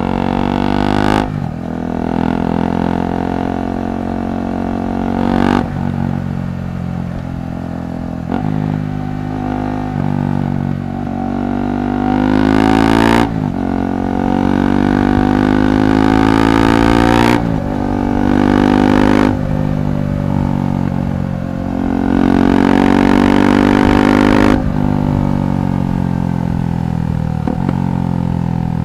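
KTM 390 Adventure SW's single-cylinder engine through a Red Rooster aftermarket exhaust, the bike being ridden. The exhaust note climbs steadily in pitch and drops off sharply about seven times as the rider works up through the gears.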